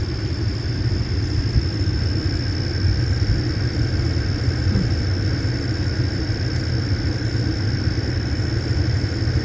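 Vehicle driving along a country road: a steady low road and engine rumble.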